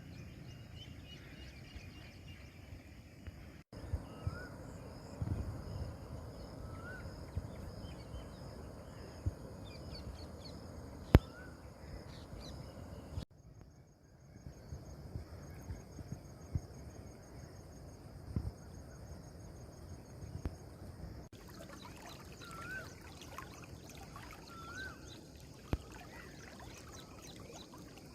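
Outdoor field ambience: a low rushing background with birds giving short rising chirps every few seconds and a faint, steady high insect buzz, broken by a few sharp clicks. The background changes abruptly three times.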